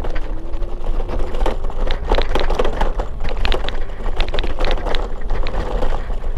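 Riding noise of a rented NEON ride-share bike on a bumpy path: a steady low rumble with many irregular rattling clicks as it jolts over the bumps.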